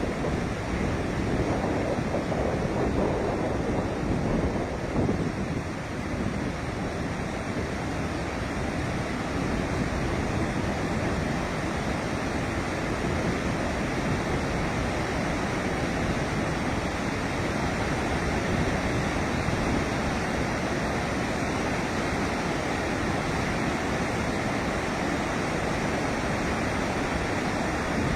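Steady rush of water pouring out through a dam's open release gates.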